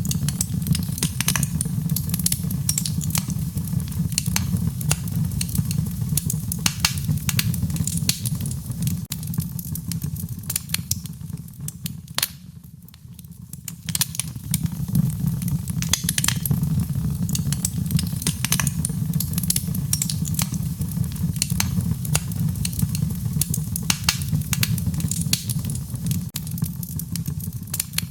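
Wood fire crackling, with frequent sharp pops and snaps over a low, steady rumble of burning flames. The crackling eases briefly about halfway through, then picks up again.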